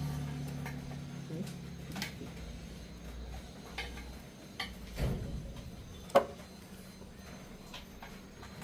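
Sporadic light metallic clicks and taps, about six spread irregularly, the sharpest a little after six seconds in, typical of hand tools being handled on metal. A low hum fades out in the first second.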